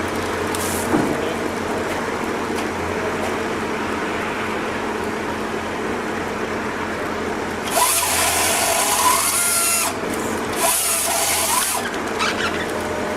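A motorised saw cutting wood: an engine running steadily, with two louder spells of cutting, the first beginning a little past halfway and the second near the end.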